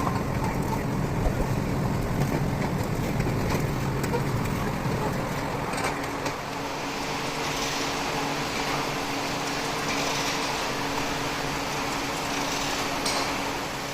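Steady mechanical noise, with a rumble in the first half and a steady motor hum that comes in about six seconds in.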